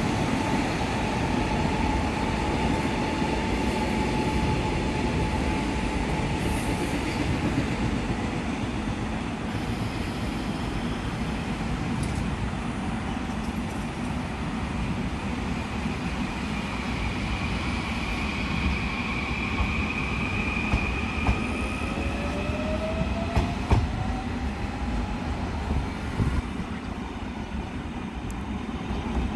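Long electric commuter train running past on the tracks: a steady rumble of steel wheels on rail with thin high squealing tones, and a short rising whine about three quarters through.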